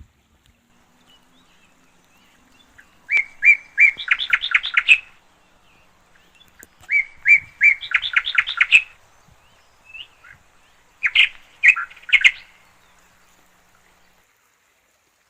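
A songbird singing three phrases about four seconds apart; each phrase is a few separate notes running into a fast trill.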